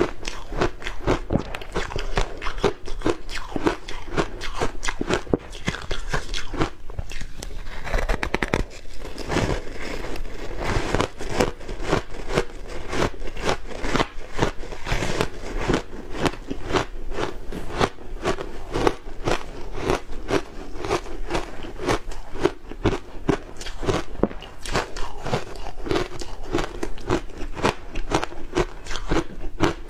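Teeth biting and chewing ice coated in matcha powder: continuous crisp crunching and cracking, several crunches a second.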